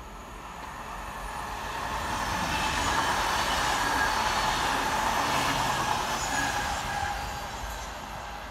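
Mälartåg ER1 double-deck electric multiple unit passing, its rolling noise building to a peak a few seconds in and then fading, with faint steady whining tones over the rumble.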